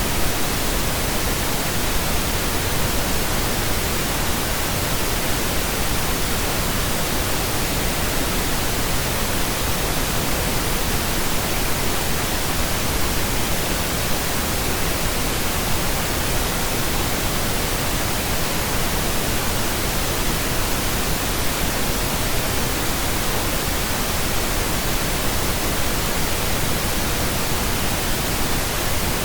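Steady synthetic pink noise: an even, unchanging hiss with no tones or events in it.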